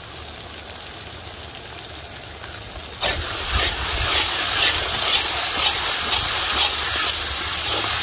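Country chicken chukka sizzling as it fries in sesame oil in a pan, a steady sizzle. About three seconds in it turns suddenly louder, with scraping stirring strokes about twice a second as the pieces are turned.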